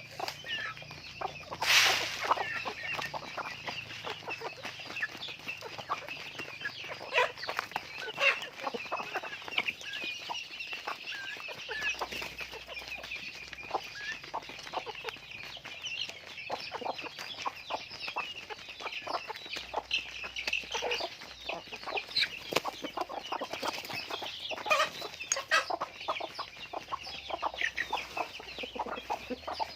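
A flock of chickens clucking and calling without a break, many short calls overlapping. There is a louder burst about two seconds in.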